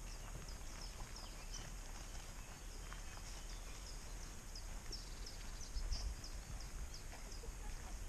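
A small bird giving short, high chirps over and over, two or three a second, against a steady low rumble that swells briefly about six seconds in.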